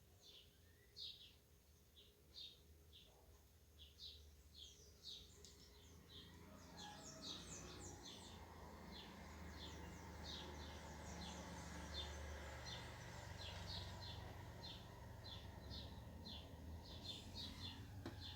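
Small birds chirping: short, high chirps repeated two to three times a second, with a low steady background noise building up from about a third of the way in.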